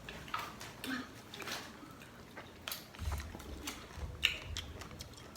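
A person chewing and biting into Marian plum fruit, making irregular short wet clicks and crunches, with a low rumble joining about three seconds in.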